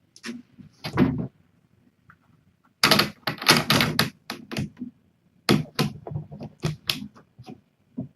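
Cat food dishes being handled and set down, clattering in a run of sharp clicks and knocks. It is densest about three seconds in and again from about five and a half to seven seconds.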